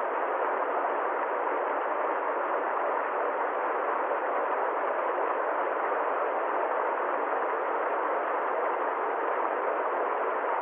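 Steady, unchanging rushing noise with no tone, rhythm or breaks, cut off sharply below and above its middle range.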